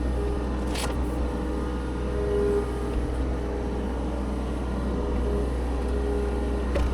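Heavy machine's diesel engine running steadily at constant speed, a low rumble with a held hum above it. There is a short click about a second in and another near the end.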